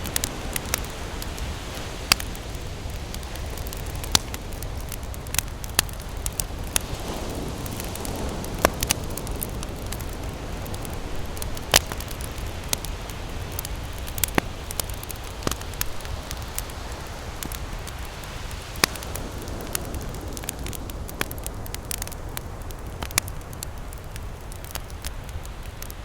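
Campfire crackling, with sharp pops and snaps at irregular moments, a few each second, over a steady wash of ocean waves.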